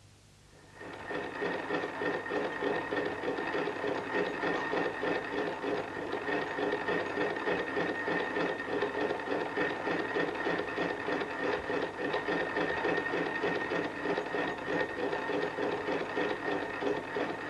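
Bryan Donkin's 1820 rose engine (geometric lathe) running: a rapid, even mechanical clatter with a steady whine over it. It starts about a second in.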